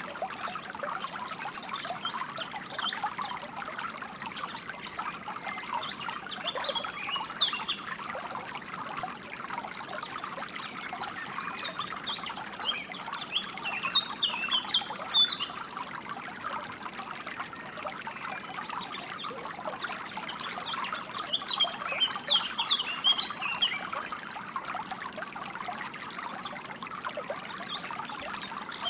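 A small stream trickling and burbling steadily, with songbirds chirping in short bursts of quick high notes over it, busiest about halfway through and again about three quarters of the way through.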